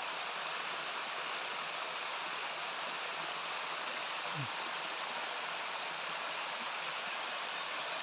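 Small waterfall and stream rushing over rocks: a steady, even wash of water noise. About halfway through, a brief low falling sweep.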